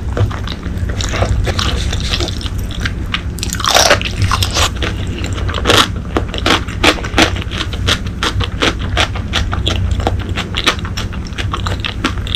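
Close-miked eating: a person bites and chews braised pork leg, with repeated short wet mouth clicks that come thickest in the second half, over a steady low hum.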